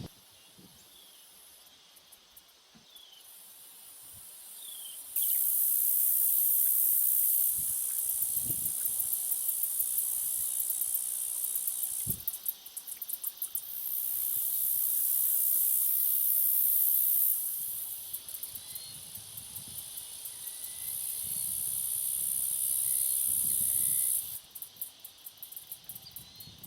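Insects buzzing in a very high-pitched, steady drone that switches on and off abruptly in stretches of several seconds and breaks into rapid pulsing between them. Faint short bird chirps come and go beneath it.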